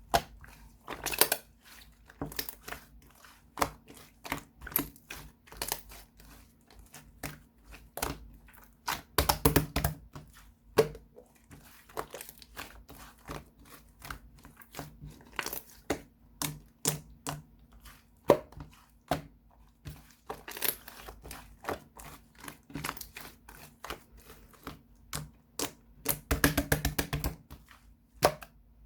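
Slime being squeezed and pressed by hand, making irregular sharp clicks and pops, with denser crackling flurries about nine seconds in and again near the end.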